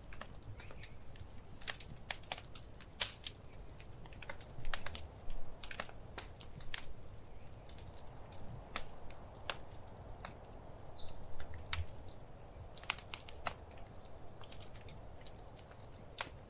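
Wood fire in a fireplace crackling: irregular sharp pops and snaps, bunching into quick clusters now and then.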